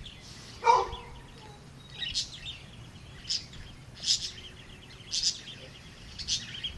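A bird chirping repeatedly, one short high call about once a second, over faint background chirping. A single short, louder voice-like sound comes about a second in.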